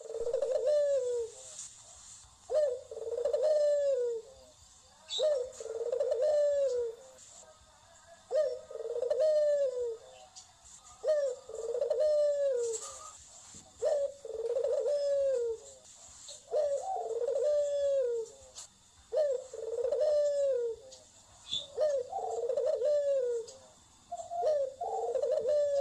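A bird calling over and over: a short low note followed by a longer falling phrase, repeated about every two and a half seconds, around ten times.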